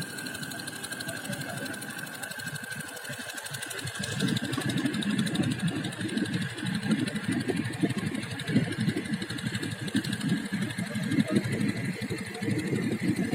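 Small boat engine running steadily with a rapid clatter. About four seconds in, a louder, uneven low rumble joins it.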